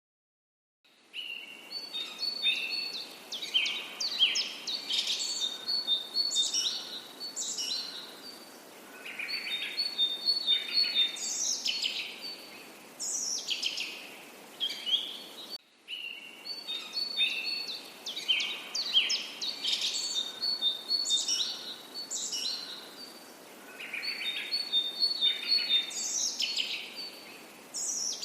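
Songbirds singing: phrases of rapid high chirps and short falling whistles, over a faint steady hiss. It starts about a second in after a brief silence, and the same stretch of song repeats about halfway through.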